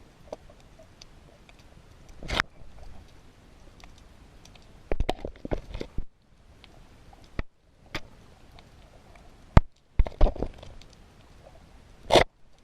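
Underwater ambient sound through a camera housing: a low steady hiss broken by irregular sharp clicks and short crackling bursts, the loudest about two seconds in, around five seconds in, around ten seconds in and near the end.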